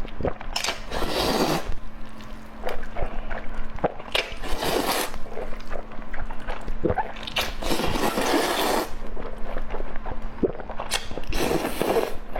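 Close-miked eating of spicy noodles: four long slurps about three seconds apart, with wet chewing and smacking between them.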